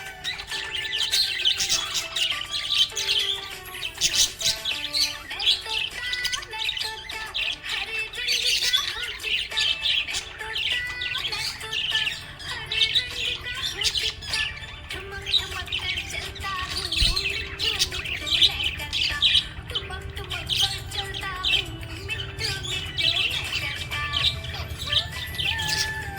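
A flock of budgerigars chirping and chattering continuously, with rapid high twitters and squawks, over background music with held notes.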